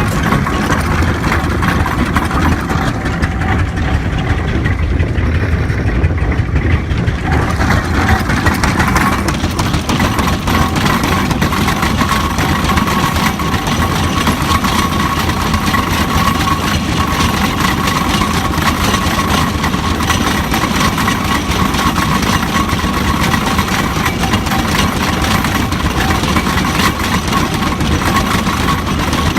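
Marshall steam traction engine running steadily. A steady higher tone joins about eight seconds in.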